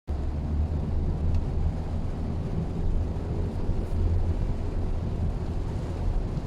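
Steady low rumble of a Mitsubishi Xpander on the move, engine and road noise heard inside the cabin.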